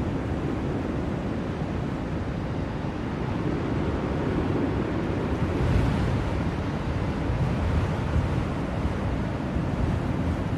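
Blizzard wind: a steady low rush of wind noise that swells in a gust about six seconds in.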